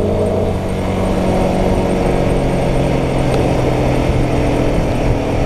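Royal Enfield Guerrilla 450's single-cylinder engine accelerating, its pitch rising over the first half-second and then holding steady at speed, mixed with wind and road noise.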